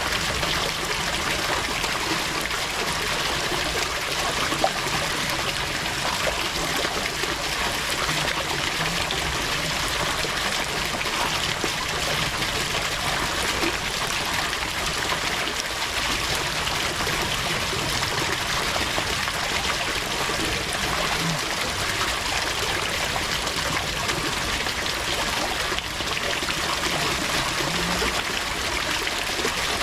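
Water running and trickling steadily without a break.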